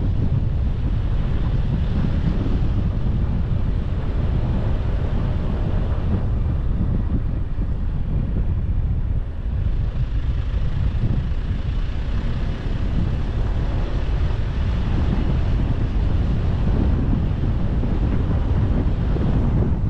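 Steady wind buffeting and road rumble from a moving car, loudest in the low range, with no distinct events.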